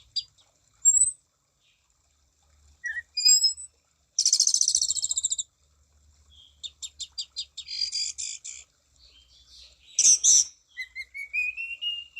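Orange-banded thrush (anis cendana) singing a varied song in phrases with short pauses. There are quick runs of sharp high notes and a dense buzzy trill, and a long rising whistle near the end.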